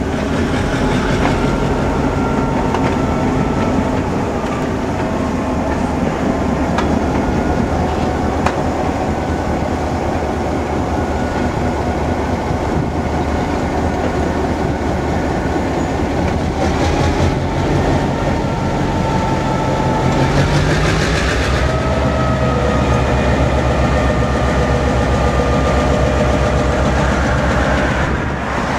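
A string of open-top railroad freight cars rolling slowly past, a steady low rumble under the wheels with a few clicks over the rail joints. High thin wheel tones waver and slide in pitch about two-thirds of the way through.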